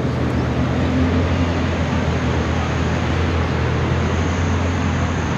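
A car engine idling close by, a steady low note with no revving.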